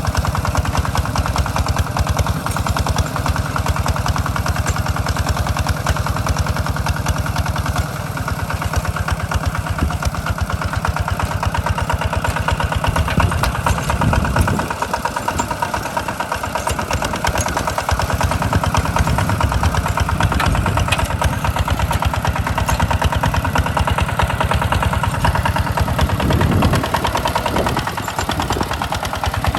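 Engine of a Hinota walk-behind two-wheel tractor running steadily with an even rapid firing beat while plowing, its note shifting briefly about halfway through and again near the end.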